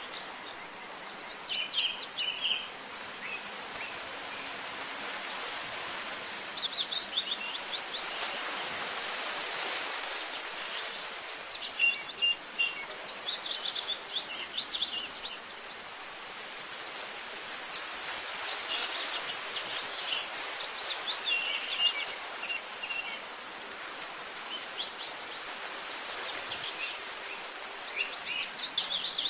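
Small birds chirping and trilling in short scattered bursts over a steady background hiss.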